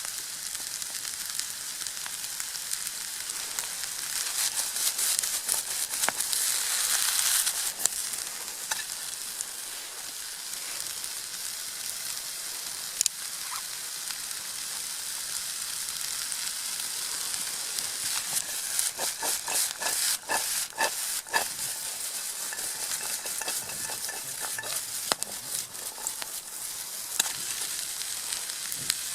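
Red onions and baby corn sizzling as they fry in a pan over a campfire. The sizzle swells for a few seconds near the start. About two-thirds of the way through come a run of sharp clicks and scrapes, a utensil stirring in the pan.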